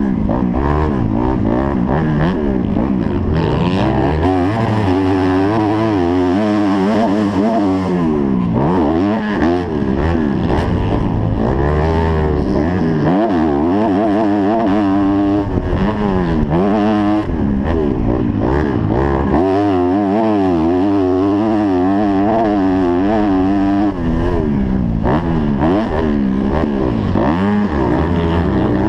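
250-class motocross bike engine, heard from a helmet camera, revving up and falling off again and again as the throttle is opened and closed.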